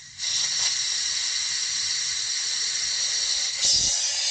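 Compressed air hissing steadily through the open valve stem of a motorcycle tire, blown through to clear tire sealant so the stem does not clog. It starts after a brief pause and gets louder near the end.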